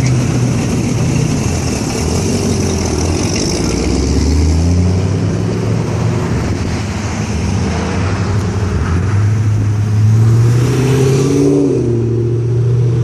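Classic car engines running as cars pass close by in slow cruise traffic, one revving up about four seconds in and another rising in pitch near ten seconds before dropping back.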